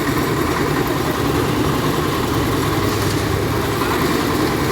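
Engine of a concrete mixer machine running steadily.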